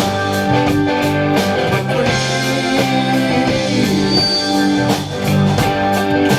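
Live rock band playing an instrumental passage between sung verses: guitar over bass and a drum kit keeping a steady beat.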